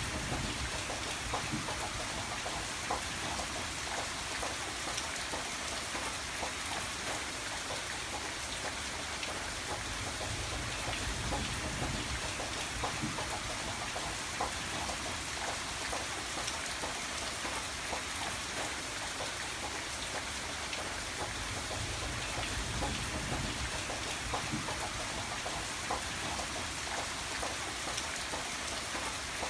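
Steady rain falling, with a dense patter of drops and a low rumble underneath, even throughout.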